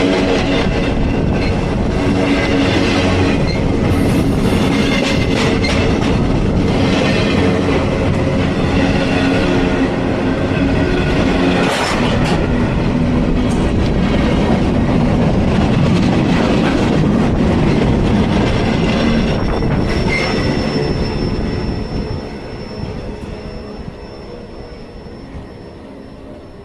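A train rolling past close by with its wheels clacking over the rail joints and some wheel squeal. About 22 seconds in, the sound drops away, leaving a thin, high, steady squeal that fades.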